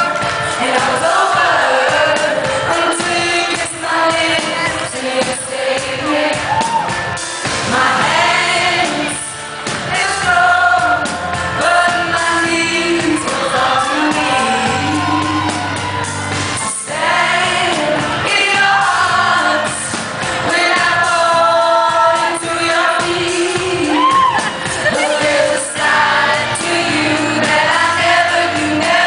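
A female pop singer singing live with band accompaniment at a concert.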